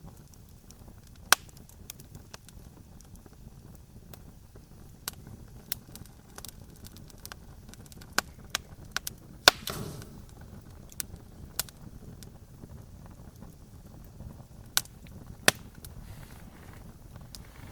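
Campfire crackling: burning wood snapping and popping in sharp, irregular cracks over a low steady rumble of the flames. The loudest pops come a little over a second in, about halfway (with a brief hiss after it), and near the end.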